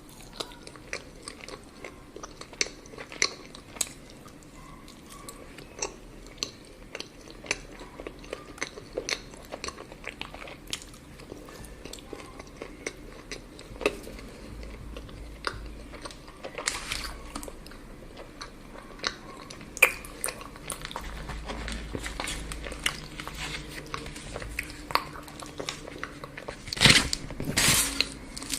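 Close-miked chewing and biting of chocolate, with steady crunching clicks throughout and a louder cluster of crackles near the end.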